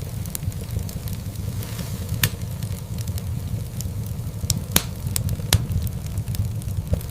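Wood fire crackling in a fireplace: a steady low rumble of flames with scattered sharp pops and snaps, the loudest a little past the middle.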